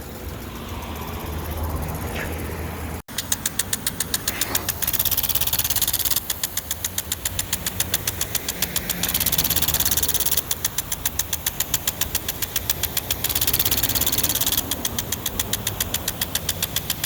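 Impact sprinkler running: its arm snaps against the water stream in rapid, regular ticks over the hiss of the spray. From about three seconds in, the ticking stops and starts several times, giving way to a steady spray hiss for a second or two between runs.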